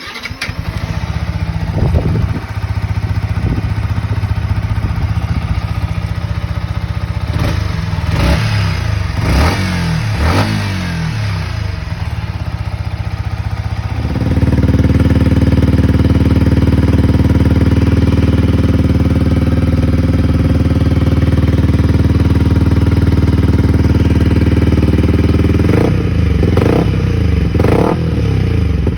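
Yamaha MT-125's single-cylinder engine running through its exhaust: idling with a series of quick throttle blips. About halfway through it turns suddenly louder and fuller and settles into a steady idle, with three more quick revs near the end.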